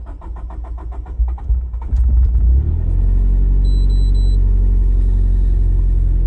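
Nissan Pulsar GTiR's turbocharged SR20DET four-cylinder cranking on the starter for about two seconds, then catching and settling into a steady idle through its new custom turbo-back exhaust, heard from inside the cabin.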